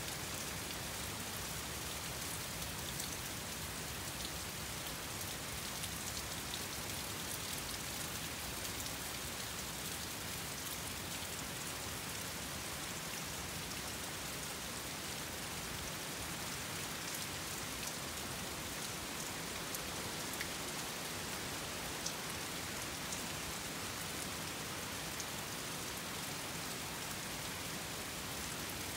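Steady morning rainfall, an even hiss of rain on surfaces with scattered individual drop ticks.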